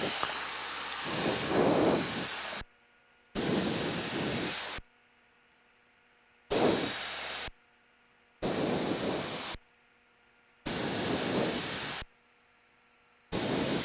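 Hissing cabin noise from a light single-engine airplane heard through the headset intercom audio. It comes in about six bursts of one to two seconds each, switching on and off abruptly, with near silence between them.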